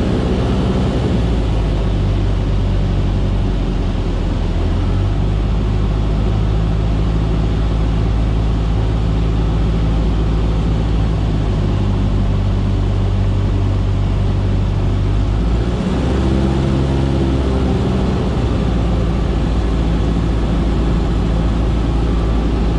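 Cessna 152's four-cylinder Lycoming piston engine and propeller droning steadily in flight. The pitch of the drone shifts slightly about four seconds in and again about sixteen seconds in.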